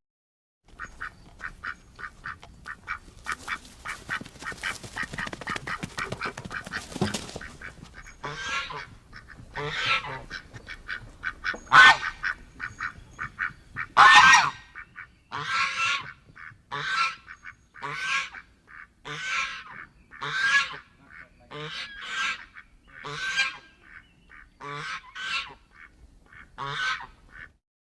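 Geese honking. The calls start as a rapid run of short honks, several a second, then give way to slower, longer honks about one a second, with two especially loud ones in the middle.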